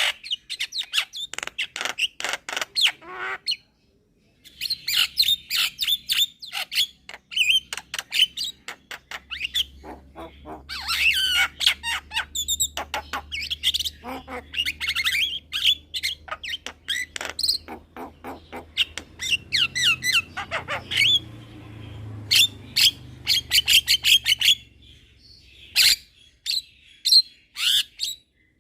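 Young Javan myna singing a fast, varied run of chirps, trills and squawky notes in long bursts, with a brief pause about four seconds in.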